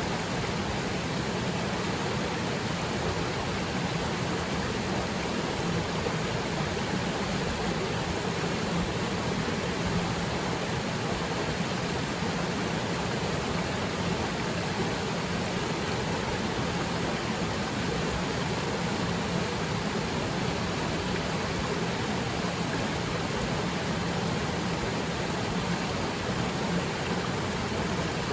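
Waterfall plunging into its pool: a steady, even rush of falling and splashing water.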